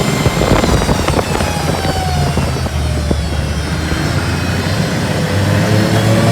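Yamaha RS Viking Pro snowmobile's three-cylinder four-stroke engine running on a test ride, its pitch falling over the first few seconds, holding steady, then rising again near the end, with a few sharp clicks in the first second.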